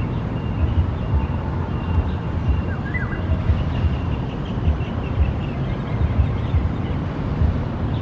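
Low rumbling background noise throughout, with a faint high steady tone and a few faint short whistled bird calls about three seconds in, from a black-naped oriole.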